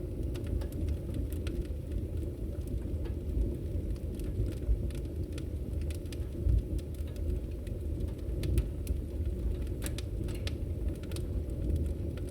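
Wood fire in a fireplace burning, with a steady low rumble under frequent, irregular sharp crackles and pops.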